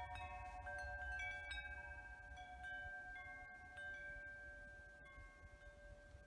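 Wind chimes ringing in a strong wind, one tone after another sounding and slowly dying away, over a low wind rumble on the microphone.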